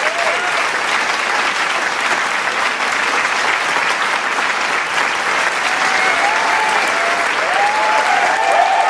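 Large crowd applauding, a dense, steady clapping. Cheering voices and whoops rise out of the clapping in the last few seconds.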